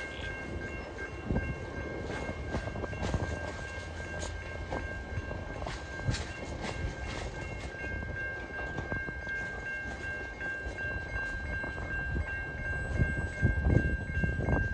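Empty flat wagons of a TasRail freight train rolling past, wheels clicking over the rail joints. A steady high-pitched tone runs alongside.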